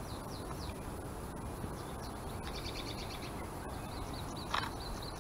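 Small songbirds chirping and trilling in short repeated phrases over a steady low outdoor background noise, with one brief louder call about four and a half seconds in.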